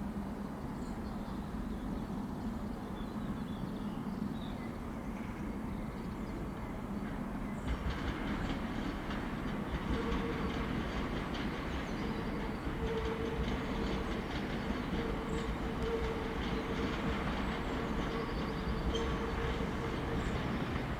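A train running along the track: a steady rumble with a low hum at first, then about eight seconds in the wheel clatter comes in close and loud, and from about ten seconds a steady whine runs under it.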